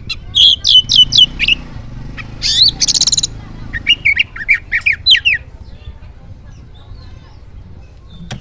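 Oriental magpie-robin (kacer) singing: runs of quick, downward-sweeping whistled notes, with a harsh buzzy call about two and a half seconds in. The song falls quiet for the last few seconds.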